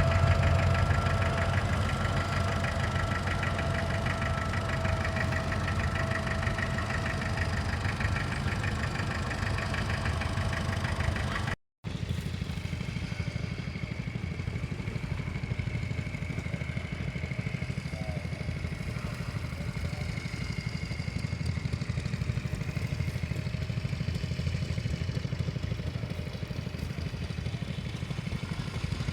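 Tractor engine running steadily, with a high whine over the engine in the first part. The sound drops out for an instant about a third of the way in, then the engine carries on a little quieter.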